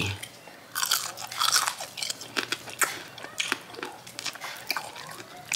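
Crunching and chewing of a crispy fried chicken wing, close to the microphone: a run of loud crunches about a second in, then scattered smaller crunches as it is chewed.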